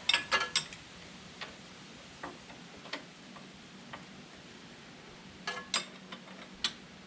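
Sharp metallic clicks and clinks from a ratchet socket wrench working on backhoe mounting-plate bolts: a quick run of clicks at the start, a few single clicks spread through the middle, and another short run near the end.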